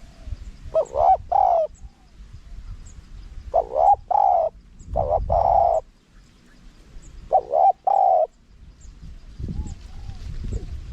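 Spotted dove cooing: three phrases of deep, hooting coos, each of a few notes. A low rumbling noise sits underneath and swells near the end.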